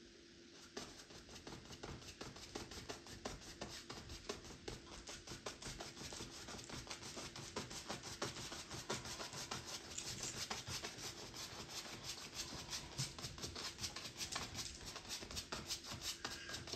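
Fan brush scrubbing white paint onto a canvas in rapid, rhythmic scratchy strokes, several a second, starting just under a second in.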